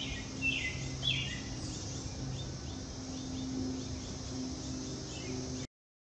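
Birds chirping: two clear falling chirps about half a second and a second in, then fainter repeated chirps, over a steady low hum. The cicada chorus has died away. The sound cuts off abruptly near the end.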